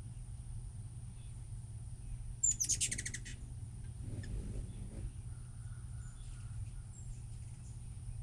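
A hummingbird's rapid chattering call: a quick run of high chips lasting under a second, about two and a half seconds in, followed by a few fainter chirps later. A steady low hum runs underneath.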